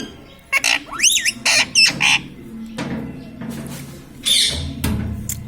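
Pet parrot squawking and chirping: a quick run of short shrill calls in the first two seconds, then quieter, with one more harsh squawk a little after four seconds.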